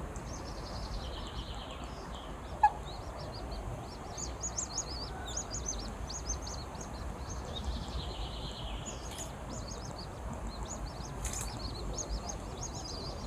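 Ducklings peeping: many short, high peeps in quick succession throughout, over a steady low rumble. A single sharp click sounds about two and a half seconds in.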